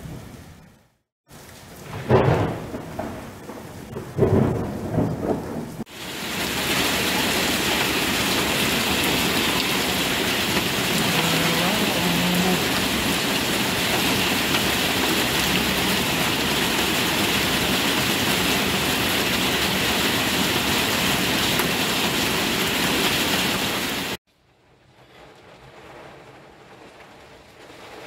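Heavy tropical rain during a cyclone. Two rumbles of thunder come about 2 and 4 seconds in, then a loud, steady downpour, which cuts off sharply near the end to a much quieter patter of rain.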